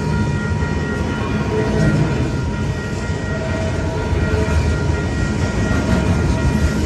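Freight train rolling past at a grade crossing: a continuous loud rumble of wheels and cars, with a few faint steady high tones over it.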